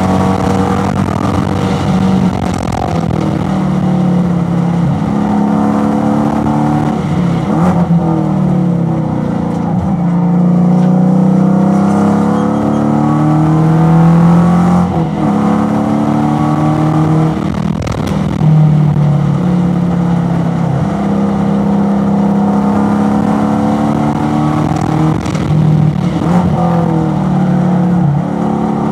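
Racing car's engine heard from inside the cockpit at race pace, its pitch climbing under full throttle and falling away several times as the driver lifts, brakes and downshifts from fourth to third for corners.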